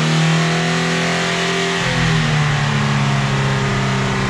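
Fiat Punto engine running at steady mid revs, its pitch easing down a little about two seconds in.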